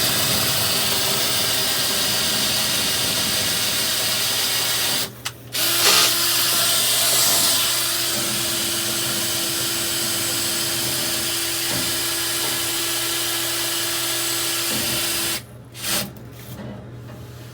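Power drill spinning a rotary brush through a dryer vent duct, run in two long bursts with a short pause about five seconds in; it stops near the end.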